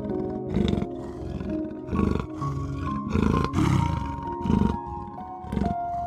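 Leopard giving a series of short rasping calls, about six in all, roughly a second apart, over soft background music with long held notes.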